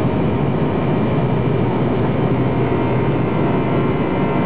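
Boeing 747 engines and airflow heard inside the flight deck: a steady, even rush of noise with a faint hum underneath.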